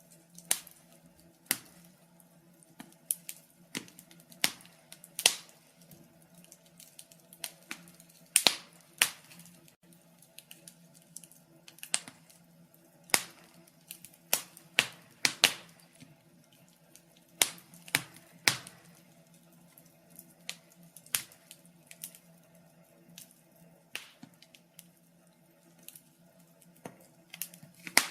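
Wood fire crackling: irregular sharp pops and snaps, sometimes several close together, a few much louder than the rest, over a faint steady low hum.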